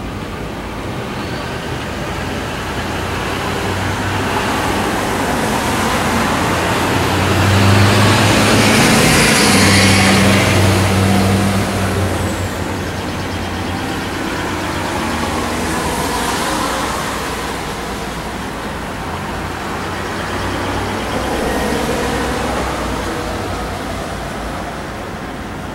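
Road traffic going by: a large vehicle passes loudly about a third of the way in, its engine hum swelling and fading, followed by smaller passing vehicles.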